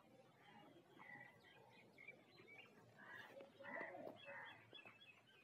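Faint chirping of small birds: short high notes scattered through, with a quick run of repeated notes near the end.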